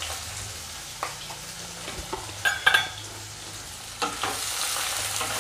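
Sweet corn and diced tomatoes sizzling in hot oil in a non-stick pan, with a few light knocks early on, then a wooden spatula stirring and scraping; from about four seconds in the sizzle and stirring get louder.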